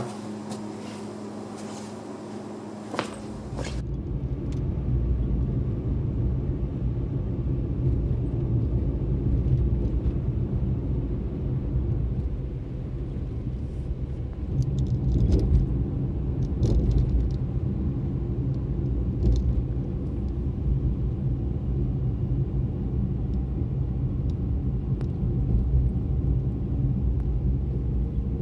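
Nissan Moco being driven: a steady low road and tyre rumble that comes in a few seconds in and holds with small swells.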